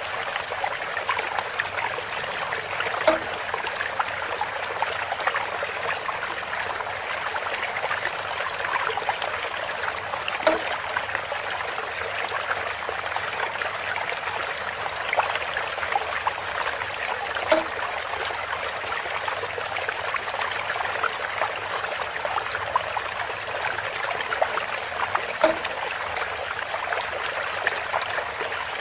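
Water trickling steadily through a bamboo fountain, with a short louder knock about every seven seconds, four times.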